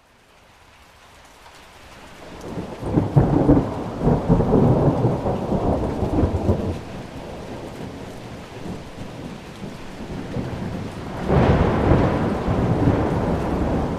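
Thunder rolling over steady rain. The sound swells up from quiet over the first few seconds into a heavy rumble that fades. A second clap breaks about eleven seconds in and rumbles on.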